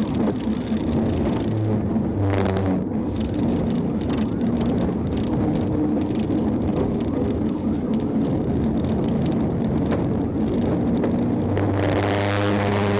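Patrol car's engine and road noise at pursuit speed, from the dash camera's audio. A steady low droning tone joins near the end.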